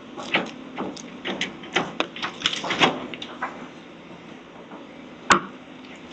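Demolition debris cracking and clattering in a quick run of knocks, then one sharp crack about five seconds in, over a steady machine hum.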